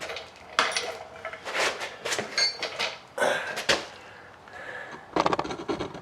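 Small loose metal parts, the removed door hinge pins and hardware, clinking and clattering as they are handled, with one brief metallic ring about two and a half seconds in and a quick rattle near the end.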